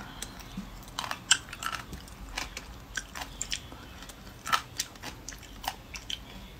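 Crisp crunching and chewing of a whole cucamelon (mouse melon) eaten skin and all, close to the microphone. The sharp crunches come irregularly; the loudest is a little over a second in and another is about four and a half seconds in.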